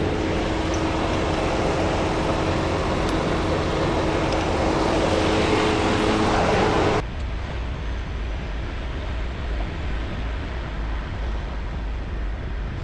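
Semi truck's diesel engine running, a loud steady noise with a steady low hum in it, that drops suddenly to a quieter low rumble about seven seconds in.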